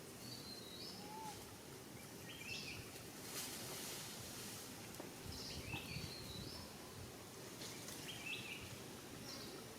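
Faint outdoor ambience with a bird repeating a short, stepped chirping call about every three seconds.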